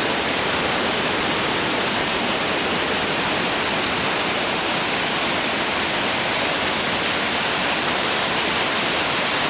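Steady rushing of whitewater in a rapid on the Chattooga River.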